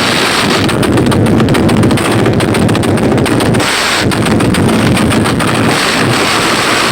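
Bass-heavy music played at very high volume through large sound-system speakers in a sound-system battle, distorting and overloading the recording.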